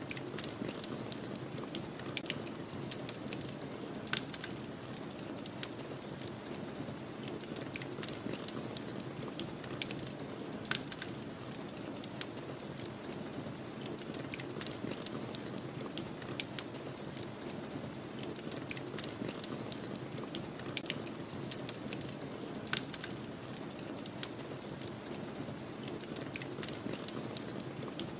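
Wood fire crackling, with irregular sharp pops and snaps, over a steady low rush of snowstorm wind.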